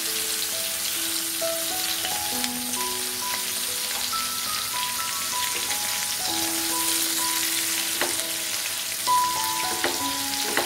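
Green chicken-mince kebabs shallow-frying in sunflower oil in a pan, a steady sizzle, with a few sharp clicks of the spatula against the pan as they are turned. Soft background music with a simple melody plays underneath.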